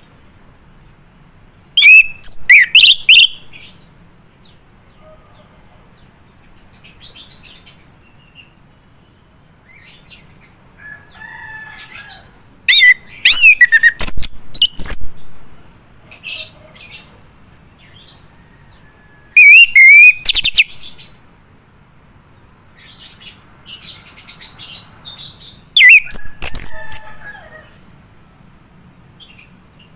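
Male chestnut-capped thrush (anis kembang) singing in loud, rapid, sweeping phrases about every six seconds, with softer twittering notes between them.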